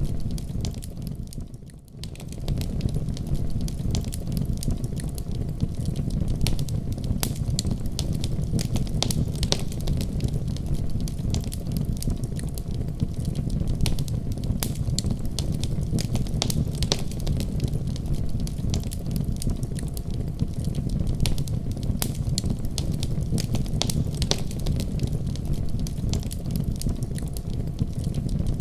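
Wood fire in a fireplace crackling, with a steady low rumble of flames under frequent sharp pops and snaps. The level dips briefly about two seconds in, then comes back.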